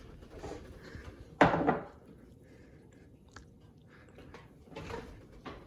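Wet, squishy sounds of angel hair pasta and crab being stirred together in a pot, with one short loud burst of noise about a second and a half in.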